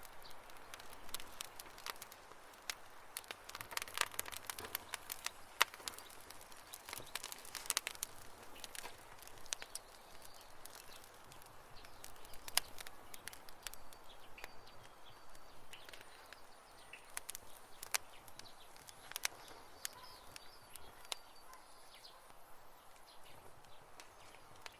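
Wood campfire crackling: irregular sharp pops and snaps over a soft hiss, thick in the first half and thinning out later. Faint short high chirps sound in the background in the second half.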